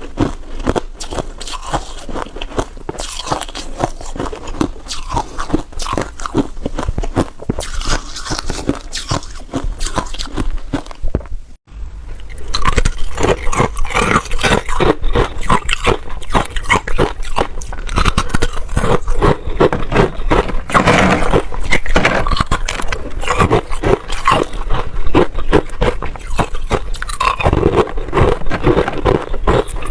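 Freezer frost being bitten and chewed close to the microphone: rapid, irregular crunching with wet mouth sounds. There is a brief break near the middle, after which the crunching is louder.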